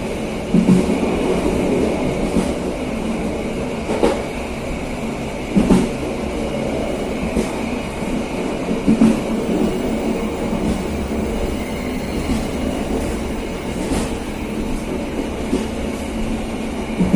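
KA Serayu passenger train running along the line: a steady rolling rumble with a thump every few seconds as the wheels pass rail joints.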